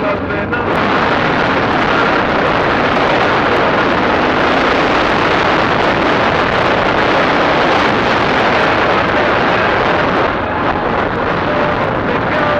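Loud, steady rush of wind and riding noise from a Chinese DF250RTE 250 cc dirt bike on the move, with no clear engine note standing out.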